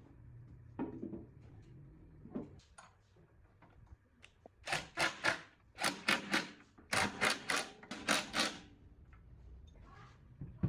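Workshop hand work on a metal part: a run of about a dozen quick, harsh strokes, three or four a second in short groups, about halfway through, after a few light clicks.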